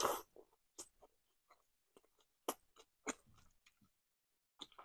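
A person eating up close: a handful of short, faint mouth sounds (lip smacks and wet clicks while chewing), spread out with silence between them.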